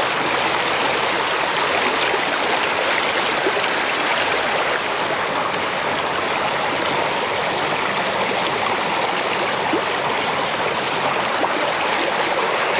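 Mountain creek water rushing and splashing over rocks, a steady loud rush.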